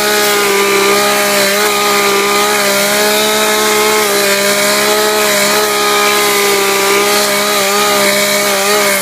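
Chainsaw engine running at a steady high speed, its pitch falling sharply as the throttle is let off at the very end.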